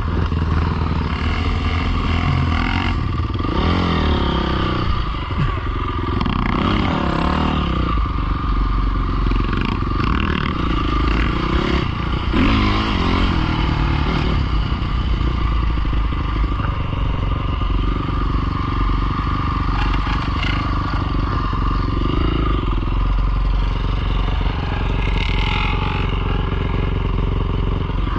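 Small off-road motorcycle engine running continuously, the revs rising and falling several times, over a heavy low rumble.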